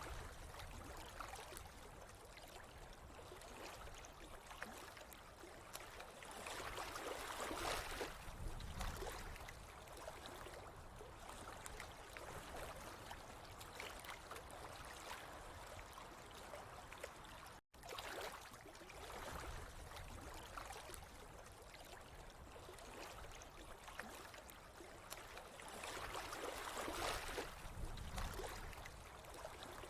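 Running, trickling water in a steady wash that swells louder twice, with a momentary break about eighteen seconds in.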